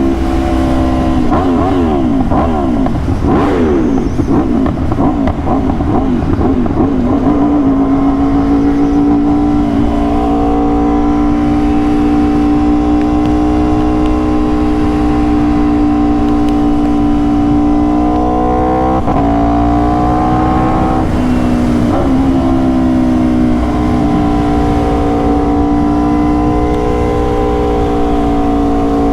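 Aprilia RSV4 sport bike's V4 engine running under way at speed, its pitch wavering in the first several seconds, then holding fairly steady with small rises, broken twice by a short dip past the middle.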